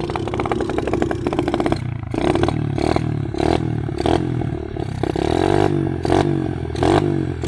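Kawasaki KLX110 pit bike's small four-stroke single-cylinder engine running through a Pro Circuit exhaust, revving up and falling back again and again as the bike is ridden slowly.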